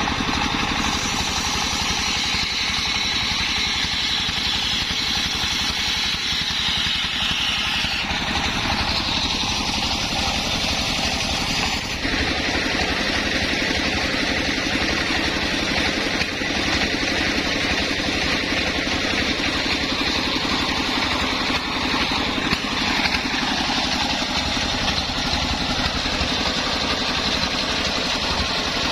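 Home-built engine-driven circular saw rig running steadily while sawing kenanga wood into boards. Its high whine drops in pitch about eight seconds in and changes again about twelve seconds in.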